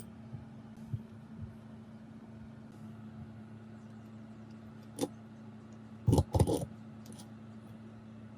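Metal parts clinking and knocking together a few times, the loudest a close pair about six seconds in, over a steady low hum.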